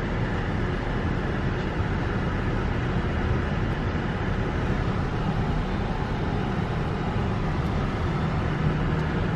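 Car driving at steady speed, a constant rumble of engine and tyre noise heard from inside the cabin.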